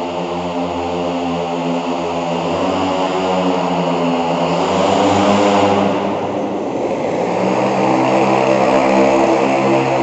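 Propeller-driven motorised bicycle with a 50 cc model-aircraft-derived engine running, its propeller buzzing. The pitch and loudness swell about halfway through, then drop, and steady again.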